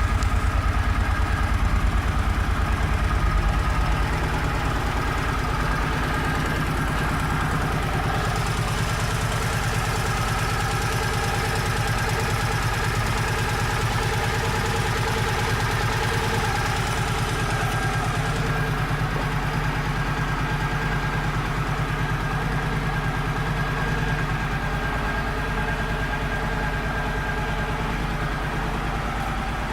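A 2008 Suzuki Boulevard C50's 805 cc V-twin idling steadily. It is a little louder for the first few seconds, then settles to an even idle.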